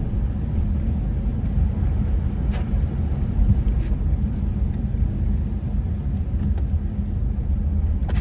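Wind buffeting the microphone in blizzard conditions: a steady, fluctuating low rumble, with a few faint ticks.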